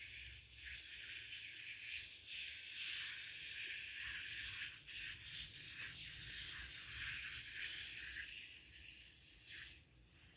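Scratchy rubbing through hair, as the hair is worked and brushed through to get everything out.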